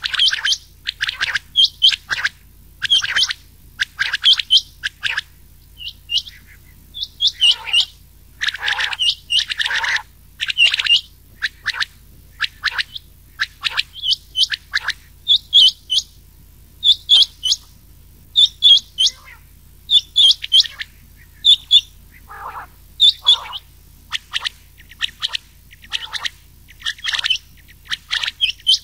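Recorded quail calls, rain quail mixed with another quail, played as a hunting lure: short sharp notes repeated in quick runs of several a second, with brief pauses between runs, over a faint low hum.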